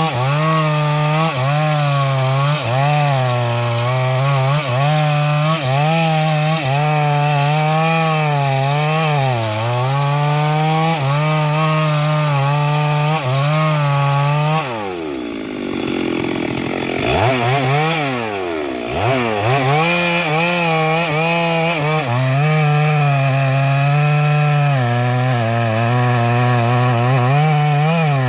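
Stihl MS382 two-stroke chainsaw running at full throttle, cutting into a large sengon trunk; its pitch wavers as the chain loads up in the wood. About halfway through the engine drops toward idle and revs back up twice, then cuts on at full speed.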